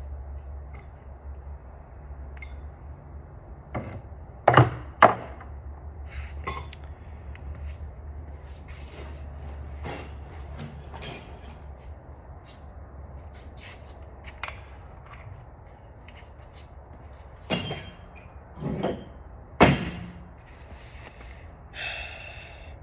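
Metal tools and engine parts clinking and knocking during an engine teardown: scattered sharp clanks, a pair about four seconds in and a cluster near the end, over a steady low hum.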